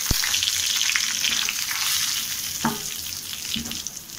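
Semolina sizzling and crackling in hot desi ghee in a frying pan, just poured in to be roasted. A low knock comes at the very start.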